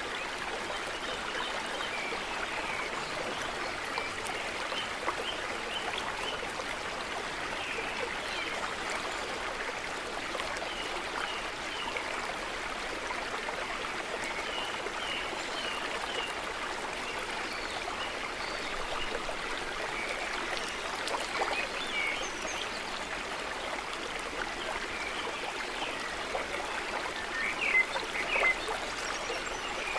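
A small stream running steadily, with birds chirping now and then over it; a few louder chirps come near the end.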